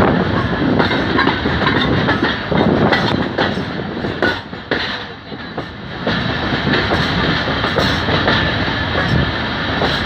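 Pakistan Railways passenger coach running along the track, heard from its open window: a dense rush of running noise with irregular clicks and clatter of the wheels on the rails, briefly quieter about halfway through.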